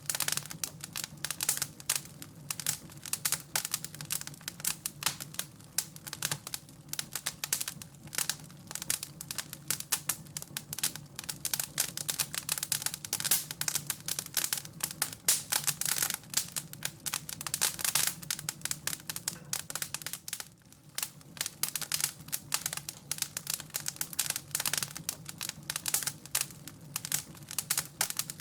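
Wood fire crackling in a fireplace: a dense, irregular run of small pops and snaps over a low steady hum.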